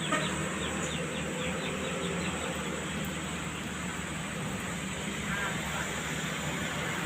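Vehicle engine running steadily at low revs, with a steady high insect drone over it.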